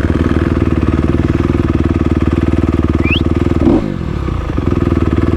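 Dirt bike engine running at low, steady revs as the bike crawls over an obstacle. About three-quarters of the way through the engine note drops away for under a second, then picks back up.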